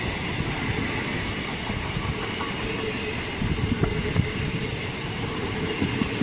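Indian Railways passenger coaches rolling past, a steady rumble of steel wheels on the rails with irregular low knocks as the wheels pass the rail joints.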